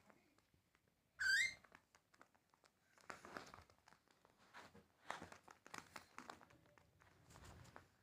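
Cockatiel giving one short, loud rising whistled call about a second in, followed by soft scratchy clicks and rustling.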